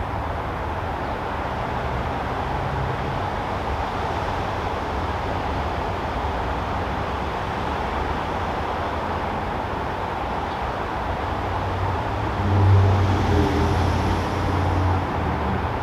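Steady background rumble of distant road traffic. About three-quarters of the way through, a louder low engine hum swells for a couple of seconds and fades, as a vehicle passes closer.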